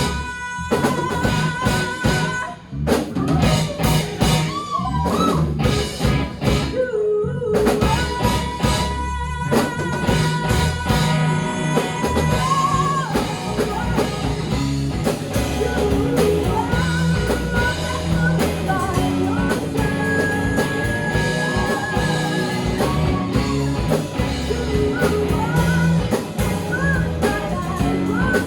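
Live rock band playing: drum kit and guitar with singing, with held notes that bend in pitch. The band stops sharply for moments a few seconds in before carrying on.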